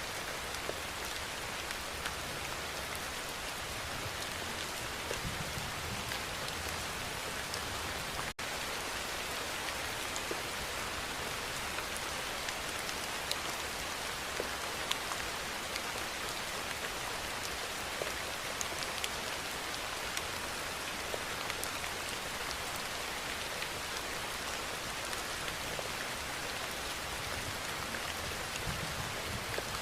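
Steady rainfall, an even hiss with scattered individual drop ticks. The sound cuts out for an instant about eight seconds in, then carries on unchanged.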